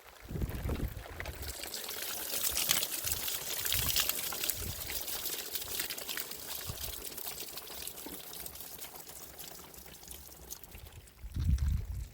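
Water pouring. It swells in the first few seconds, then slowly thins out.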